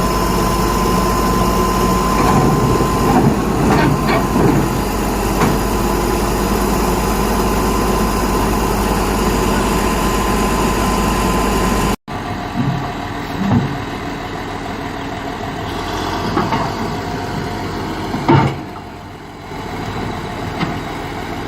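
Heavy diesel machinery engines running steadily. In the first half a steady high tone sounds over the engine. After an abrupt cut about halfway through, the engine runs more quietly, with a few sharp knocks, the loudest near the end.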